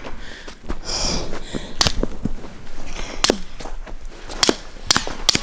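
People running after an animal on foot, breathing hard, with about five sharp knocks or clicks spread through the second half.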